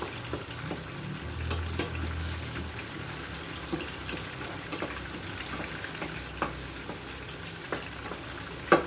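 Ground beef frying in a hot pan, sizzling steadily, with scattered taps and scrapes of a utensil breaking up the meat.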